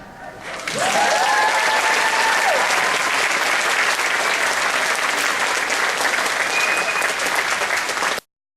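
Theatre audience applauding, with a few voices whooping early on the rise, after a clogging number; the applause stops abruptly about eight seconds in.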